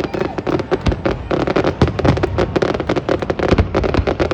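Fireworks going off in a dense, continuous barrage of rapid bangs and crackles, with a few heavier booms among them.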